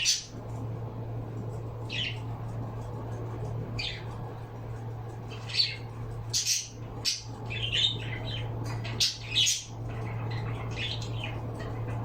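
Pet birds giving short, harsh squawks and chirps at irregular intervals, bunched together in the second half, over a steady low hum.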